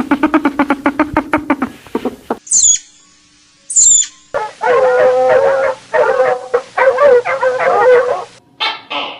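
A run of loud animal calls. First comes a fast, pulsing call, then two short high squeaks that fall in pitch, then a long wavering, howl-like call lasting about four seconds, and short bursts near the end.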